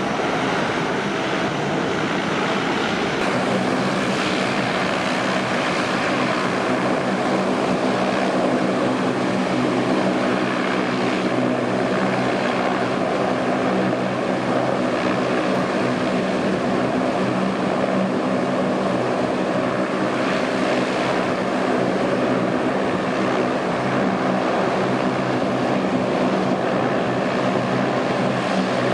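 Lockheed C-130H's four Allison T56 turboprop engines running steadily, with a constant propeller drone.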